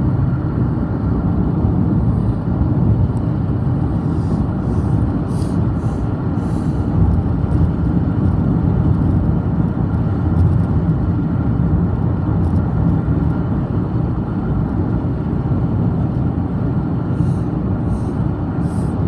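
Steady road and engine noise inside a moving car's cabin at highway speed, with a few faint light ticks.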